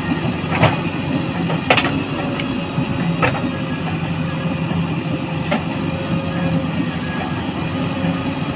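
Heavy diesel engine running steadily, with a few sharp knocks over it, the loudest about two seconds in.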